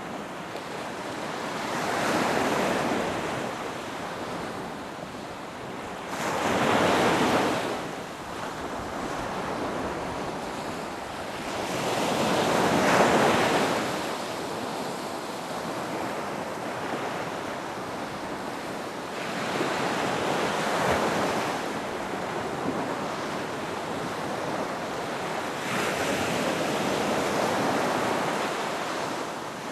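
Ocean surf breaking on a beach: five waves surge in and wash out, one about every six seconds, over a continuous hiss of water.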